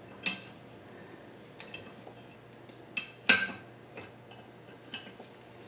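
A few sharp metallic clinks and taps of hand tools and steel parts knocking together while a motor mount is being lined up, the loudest just after three seconds in.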